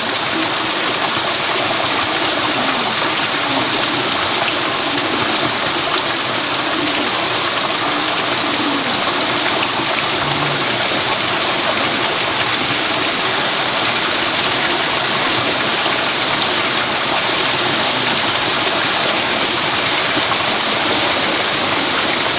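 Steady rush of running water, with a short run of faint high chirps from about a second in to about eight seconds in.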